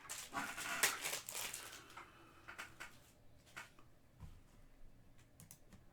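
Trading cards and their pack wrapper being handled: rustling and crinkling in the first two seconds, then a few light clicks and taps.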